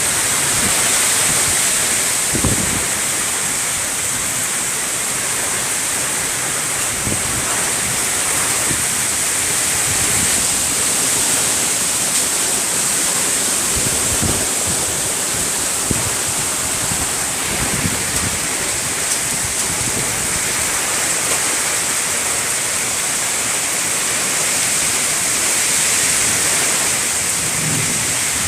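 Heavy rain pouring down in a storm, a steady dense hiss with no let-up, with a few brief low rumbles scattered through it.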